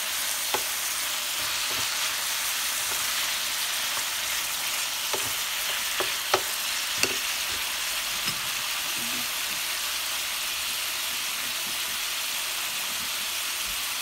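Chicken pieces frying in a pan of sauce with a steady sizzle as they are stirred. A few sharp clicks of the utensil against the pan come about six to seven seconds in.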